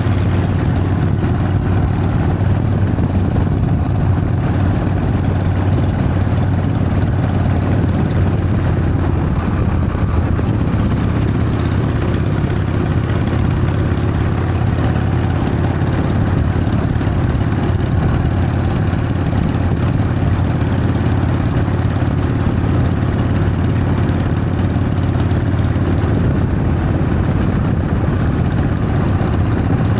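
Harley-Davidson Sportster's V-twin engine running steadily, with no change in engine speed.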